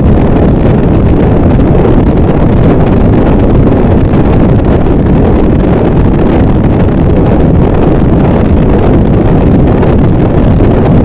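Harsh noise wall: a loud, unchanging wall of dense distorted noise, heaviest in the low and middle range, with no separate hits or changes.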